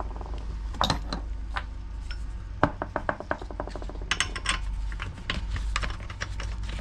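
Hand tools clicking and clinking against metal while the spark plug is taken out of a Homelite 26cc string trimmer engine, with a quick run of ratchet-like clicks in the middle. A steady low hum sits underneath.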